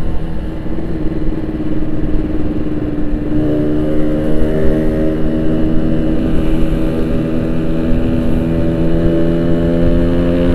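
Yamaha RX-King 135cc single-cylinder two-stroke engine running through a Boban aftermarket exhaust, its note stepping up in pitch about a third of the way in and then holding steady.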